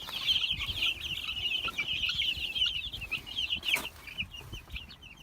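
A flock of young Production Red chicks peeping all at once, a dense high-pitched chorus of short chirps that thins out near the end. A single knock sounds a little under four seconds in.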